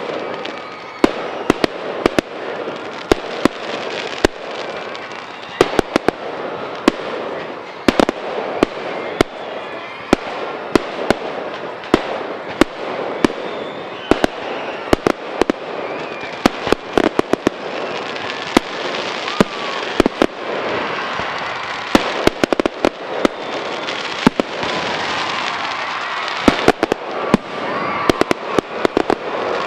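Fireworks display: many sharp bangs of bursting shells going off irregularly, often several within a second, over a continuous rushing noise.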